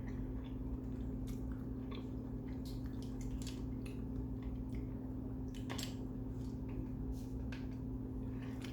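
A person chewing food close to the microphone: wet, squishy mouth sounds and small smacks and clicks, over a steady low hum.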